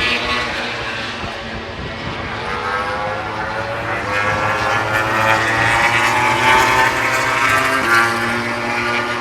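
1000 cc four-cylinder MotoGP racing motorcycles at full throttle near top speed, about 320–330 km/h. The engine note climbs in pitch through the middle and shifts sharply about eight seconds in as a bike passes.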